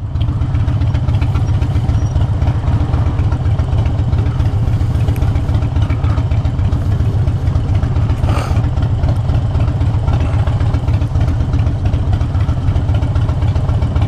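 Harley-Davidson Dyna Fat Bob's V-twin idling steadily through short straight exhaust pipes, a low, even pulse.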